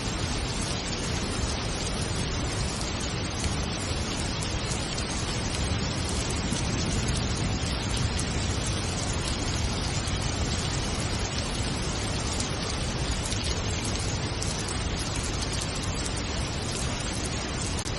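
Steady rain, an even hiss with no let-up.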